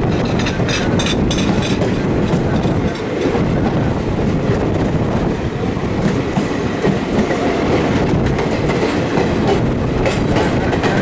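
Train running at speed on the track: a steady rumble of wheels on rail, with clusters of clattering clicks over rail joints about a second in and again near the end.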